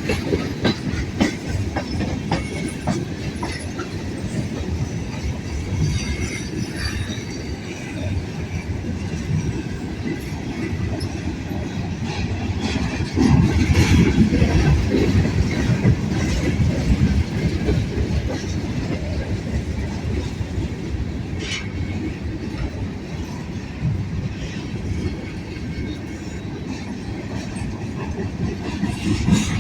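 A long freight train rolling past. Its steel wheels clack over the rail joints in a steady stream over a continuous low rumble, and it gets louder for a few seconds partway through.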